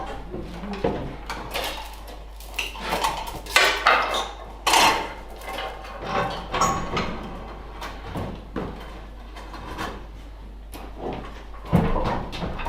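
Metal tools and parts clanking and scraping in irregular knocks and rattles, as work goes on at a tractor's clutch assembly; a few louder clanks come around four to five seconds in and near the end.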